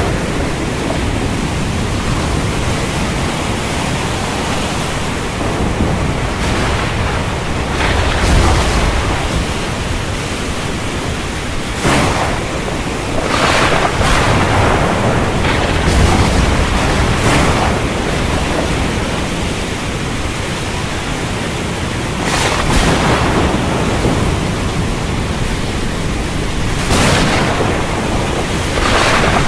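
Heavy storm rain falling steadily, with several sharp thunder cracks and low rumbles breaking through it every few seconds.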